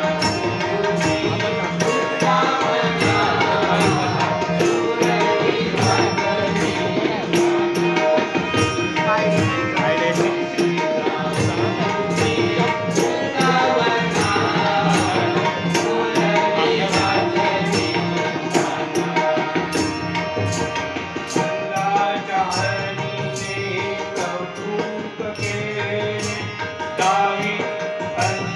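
Devotional gaulan music: tabla drumming under sustained pitched tones, with a quick steady beat of sharp clicks.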